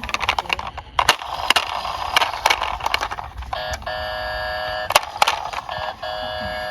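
Small toy cars clicking and clattering in quick, sharp knocks. About halfway through, a steady electronic beeping tone starts, like a doorbell or alarm, and is cut briefly twice.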